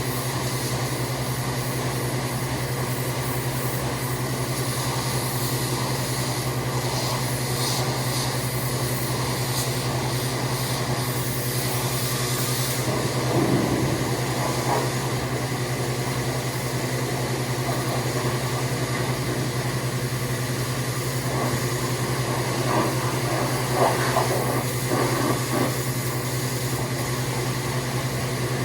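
Pressure washer's motor running steadily with the hiss of its spray, the spray louder for a moment about halfway through and in several short bursts near the end.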